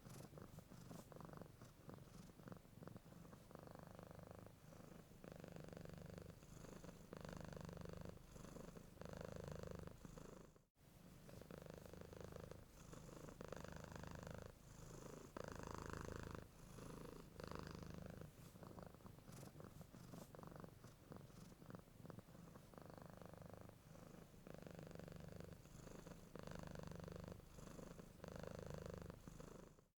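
Domestic cat purring softly and continuously, the purr swelling and easing about once a second as the cat breathes in and out. It breaks off for a moment about a third of the way through.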